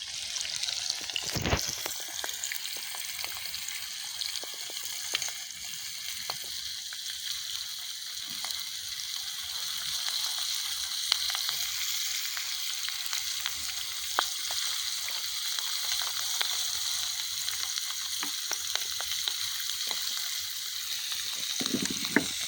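A whole floured curimbatá fish deep-frying in hot oil in a large cast-iron tacho over a wood fire: a steady sizzle with scattered small pops, and one sharper crack about a second and a half in.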